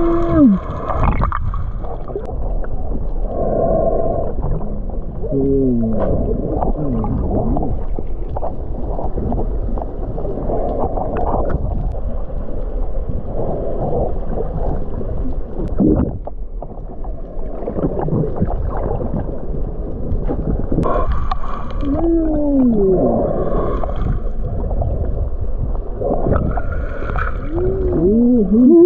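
Muffled underwater sound of the sea around snorkelers: steady water noise with little treble, broken by a few short moaning tones that bend up and down.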